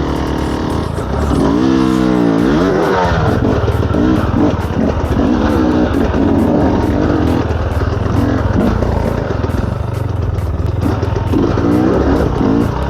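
Off-road dirt bike engine running under throttle: the revs rise and fall sharply about two seconds in, then hold high with small, uneven blips.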